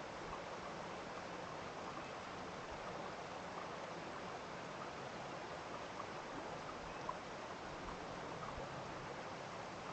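Steady rush of a running stream, even and unbroken, with faint scattered ticks over it.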